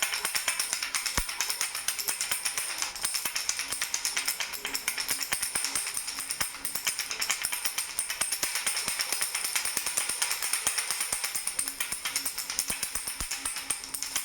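Baby rattle shaken steadily and quickly, a bright rattling jingle of several shakes a second with a steady high ring over it.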